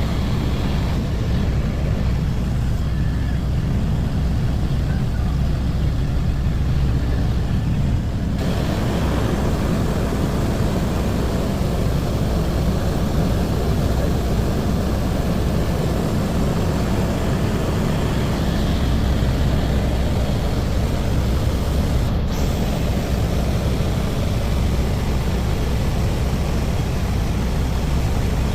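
Helicopter in flight: the steady, loud drone of the engine and rotor, deepest and strongest in the bass, unchanging throughout.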